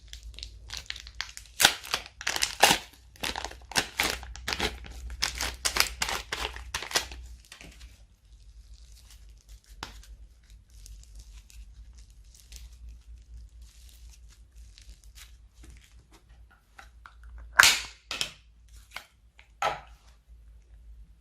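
Slime being squished and stretched by hand, crackling and popping densely for about the first seven seconds. It then goes quieter with scattered soft squishes, and two loud pops come near the end.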